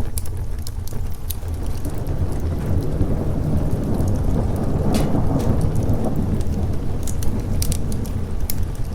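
Thunder rumbling under steady rain. The low rumble swells to a peak about halfway through and then eases off, with scattered sharp crackles throughout.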